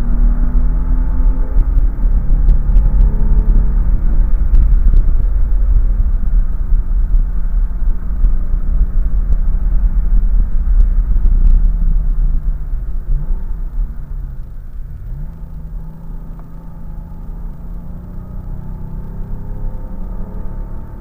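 Car engine under hard driving on a race track, heard from inside the cabin over a heavy low rumble of wind and road. The engine note falls away about two-thirds of the way through, dips twice briefly, then builds again.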